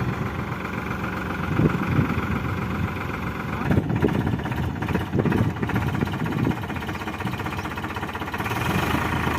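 Powertrac Euro 50 tractor's diesel engine running steadily, with a few irregular low knocks about one and a half to six and a half seconds in.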